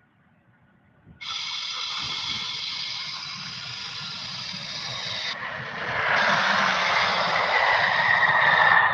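Jet airliner's turbofan engines at takeoff thrust: a loud rushing roar with a high whine, starting suddenly about a second in. It grows louder after about six seconds as a whine slowly falls in pitch, then drops away suddenly.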